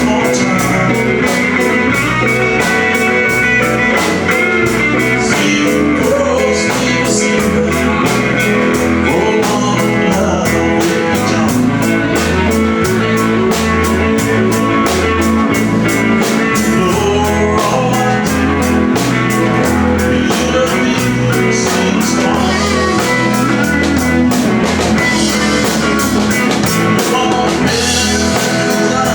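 Live band playing an upbeat country-rock number on electric guitar, bass guitar and drum kit, with a steady beat and a moving bass line.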